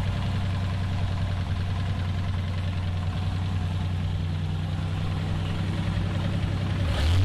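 1983 AMC Eagle SX/4's engine idling steadily, still noisy with the 'tap tap tap' it has been making. The engine picks up briefly near the end.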